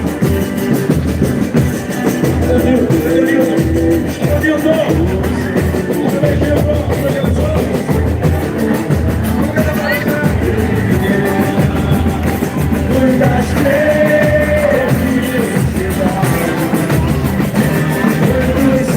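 Live boi-bumbá toada music played loud: a steady drum beat and band under a melody line, with singing.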